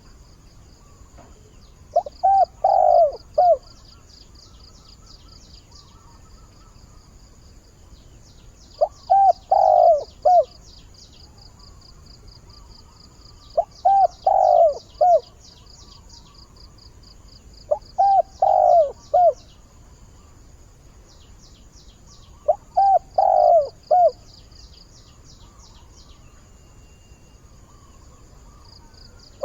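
Spotted dove cooing its advertising song to call a mate: five phrases of three or four coo notes, one every four to five seconds. Rapid high chirping runs steadily underneath.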